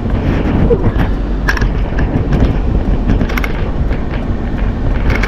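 Steady low rumble of a car heard from inside the cabin, with a few light clicks and knocks scattered through it.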